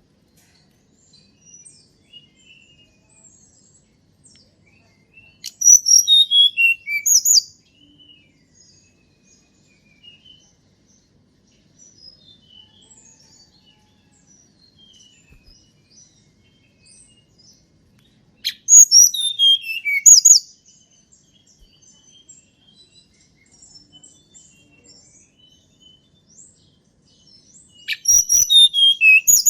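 Tledekan gunung songbird singing three loud phrases, at about 6, 19 and 28 seconds in, each a quick run of high notes falling in pitch, with faint scattered chirps between them.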